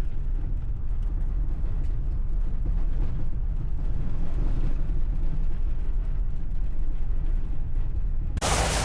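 VW Vanagon Syncro driving slowly over packed, rotten snow: a steady low rumble of engine and tyres. Near the end it cuts off suddenly to a loud, even hiss like wind or rain noise.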